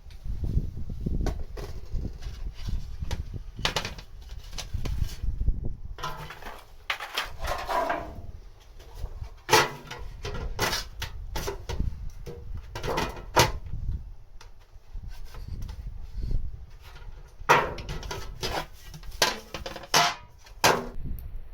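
Scattered knocks and clicks of camp cooking gear being handled, irregular, over a low steady rumble.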